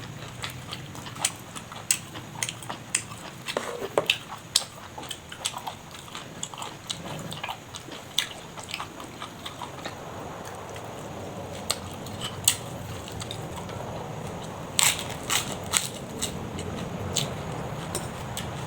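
Close-miked eating sounds: a person chewing with wet mouth clicks and crisp, crunchy bites, the loudest cluster of crunches coming about 15 seconds in.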